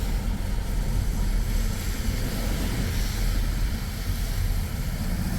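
Steady road and engine noise inside a moving car's cabin, a low rumble with an even hiss of tyres and wind.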